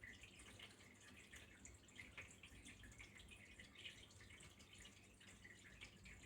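Faint small stream of water trickling and dripping, with a continuous, irregular patter of small splashes.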